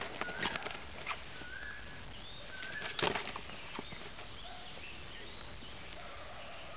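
Birds chirping in the background in short, separate calls, some rising in pitch, with a brief rustle of plastic sheeting about three seconds in.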